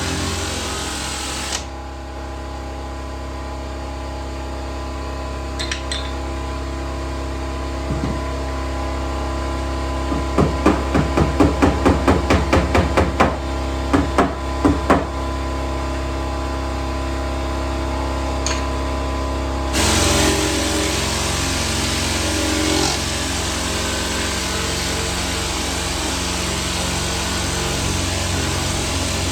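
Light hammer taps on a car door's sheet-metal panel: a quick run of about a dozen strikes, about three a second, then two or three more after a short pause, over a steady mechanical hum. A hiss drops out early and comes back about two-thirds of the way through.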